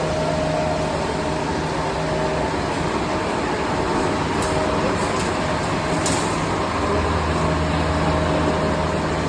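Steady mechanical hum of running machinery, with a few short sharp clicks in the middle.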